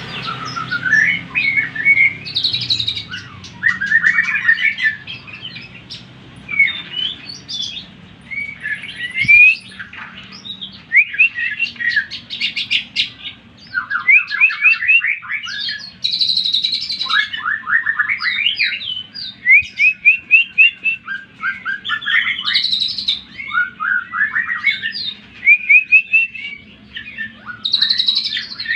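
Greater green leafbird (cucak ijo) singing a continuous, varied song: rapid runs of short down-slurred notes mixed with chirped and whistled phrases, over a faint low hum.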